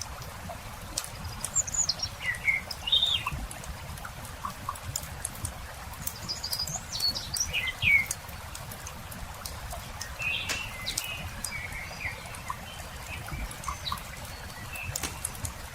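Wood campfire crackling with frequent small pops and clicks, under songbirds chirping in short quick phrases a few times, near the start, around the middle and again later on.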